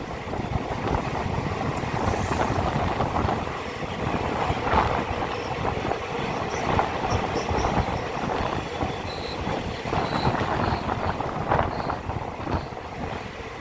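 Passenger train running on the track: a steady rumble and clatter of the coach's wheels on the rails, heard from beside the moving coach. Brief faint high wheel squeals come through in the second half.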